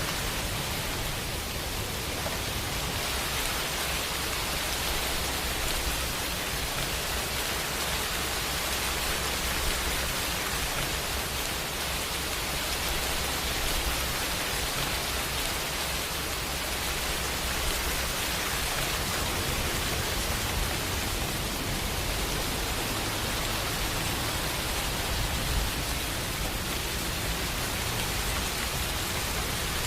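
Steady rainfall, an even hiss with a low rumble underneath, unchanging throughout.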